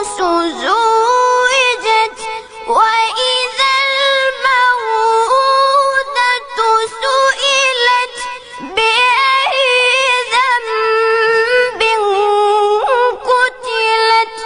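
A child's high voice reciting the Quran in a melodic, ornamented style, holding long notes and winding through runs of pitch ornaments, with a few short breaks for breath.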